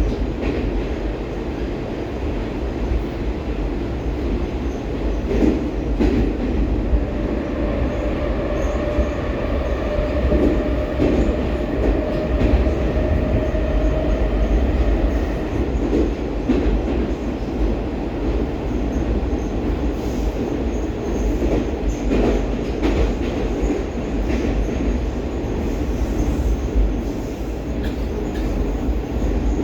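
Inside a Baltiets metro train running between stations in a tunnel: a steady rumble of the wheels and running gear, with occasional sharp knocks over the rails. A faint steady tone holds for several seconds in the middle.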